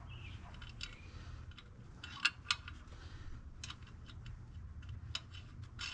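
Scattered light clicks and clinks of hand work on wheel hardware, with two sharper clicks about two seconds in, over a low steady hum.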